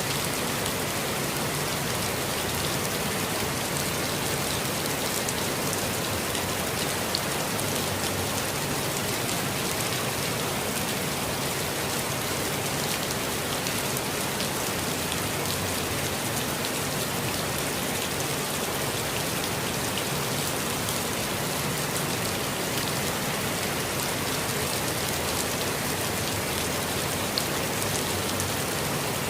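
Steady rainfall pattering on leaves and ground, an even hiss of many small drops with occasional closer, sharper drips.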